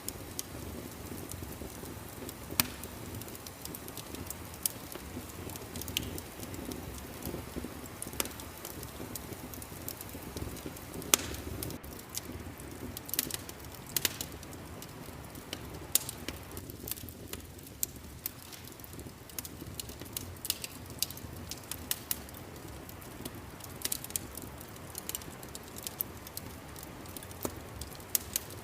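Wood fire crackling in a fireplace: a steady low rumble of flames with irregular sharp pops and snaps, some much louder than the rest.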